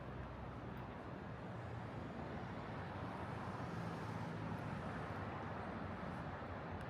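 Steady urban outdoor background noise: an even hiss over a low hum, swelling slightly about halfway through.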